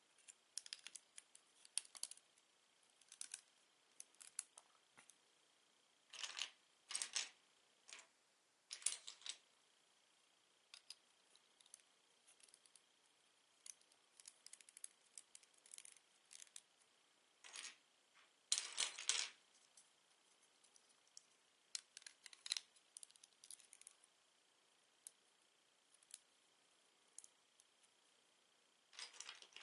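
Plastic LEGO bricks being handled and fitted together: irregular small clicks and taps with short rattling clatters, the longest about two-thirds of the way in.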